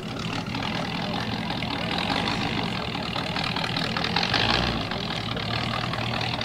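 A vehicle engine running, with a steady low hum under a rougher noise that swells to its loudest about four seconds in.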